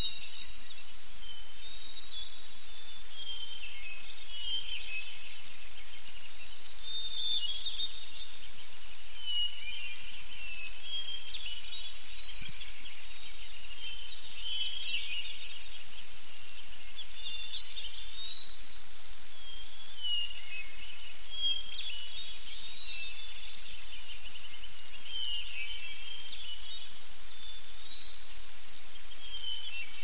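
Small songbirds chirping and warbling all through, over a steady high hiss. Midway, one bird repeats a short high note about once a second for several seconds, with a brief louder click among the calls.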